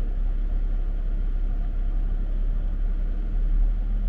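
Steady low rumble of a car heard from inside the cabin, the engine and road noise running evenly.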